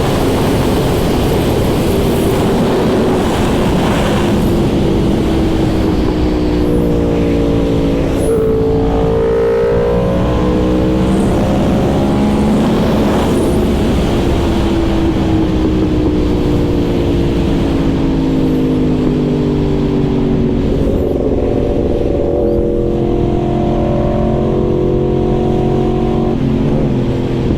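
Yamaha R1 sport bike's inline-four engine under way, its pitch climbing as it accelerates and dropping at each gear change several times, then easing down before building again. Wind rushes over the microphone throughout.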